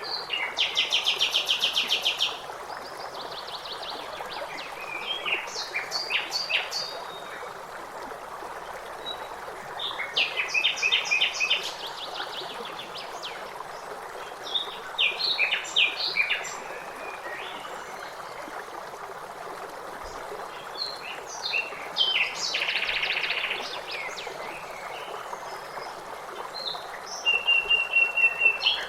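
A songbird singing in short phrases of fast trills and chirps, a new phrase every few seconds, over the steady rush of a waterfall.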